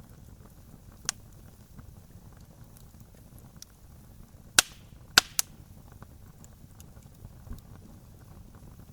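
Wood fire burning with a low rumble and constant small crackles, and four loud sharp pops: one about a second in, then a cluster of three near the middle.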